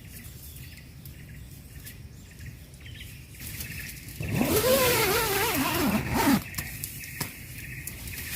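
Outdoor nature ambience: a steady high insect-like drone with scattered bird chirps. About halfway through, a loud wavering pitched sound lasts about two seconds, then drops in pitch and stops.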